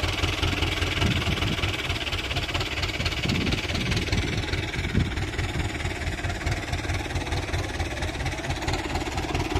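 Excavator's diesel engine running steadily, with a short knock about five seconds in.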